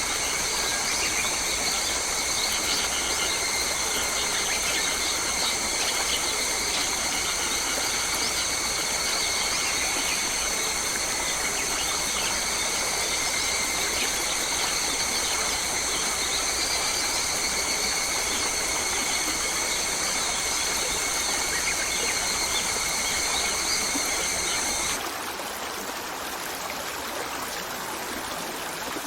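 Forest ambience: a steady, shrill chorus of several high tones over an even hiss of running water. About 25 s in, the shrill chorus cuts off suddenly, leaving only the water.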